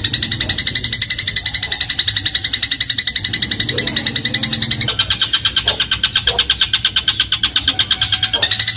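Eurasian tree sparrow (burung gereja) giving a long, very fast chattering trill of high chirps, more than ten a second, as used in bird-song tutor recordings. Its pitch drops about five seconds in and jumps back up near the end.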